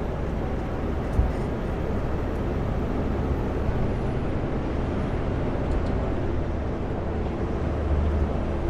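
Steady engine and road noise inside the cab of a Kenworth W900L semi truck driving down the highway, with one short sharp click about a second in.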